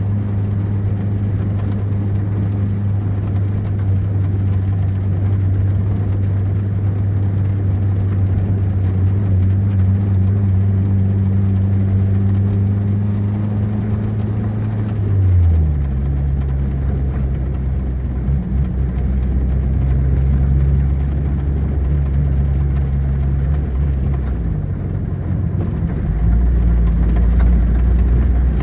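Car engine running while driving, heard from inside the car: a steady low hum whose pitch drops abruptly about halfway through and changes again near the end.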